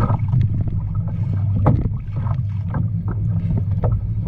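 Wind buffeting the microphone over a steady low rumble, with water slapping against a fishing kayak's hull in irregular knocks and splashes.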